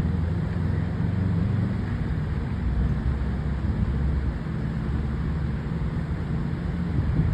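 Steady low rumble of city street traffic, cars passing at a distance.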